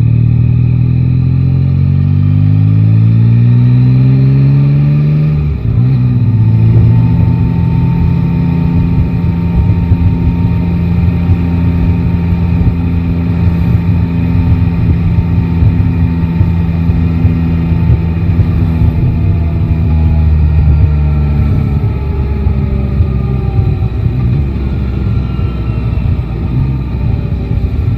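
Yamaha Tracer 9 GT's three-cylinder engine under way in city traffic. Its note rises for about five seconds and breaks off briefly, then holds steady for a long stretch, and falls away over the last several seconds as the bike slows. Wind and road noise run underneath throughout.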